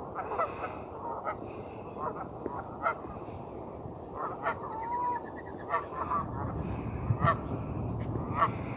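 Geese honking: many short calls one after another from several birds. A low rumble comes in about six seconds in.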